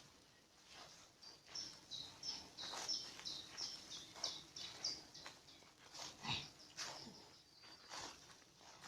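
A songbird singing a quick series of high notes that alternate between two pitches, running for about four seconds from a second in, with scattered soft knocks and rustles around it.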